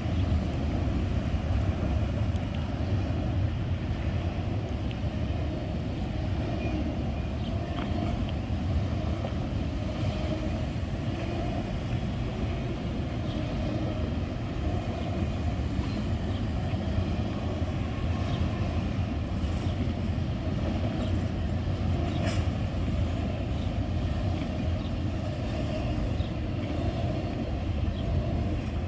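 Norfolk Southern freight train rolling past at a distance, a steady low rumble of wheels on rail.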